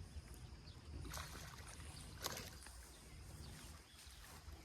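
Water splashing at the surface beside a small fishing boat, with two brief splashes about one and two seconds in over a steady low rumble.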